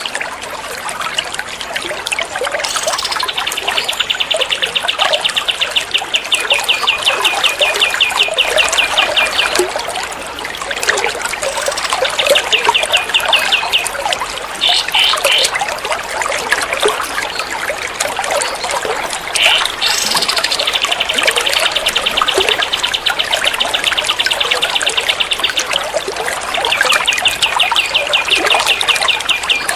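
Recorded songbird 'tembak' song: long runs of very rapid, evenly repeated high trill notes, like machine-gun fire, stopping and starting several times. A steady sound of trickling water runs beneath them.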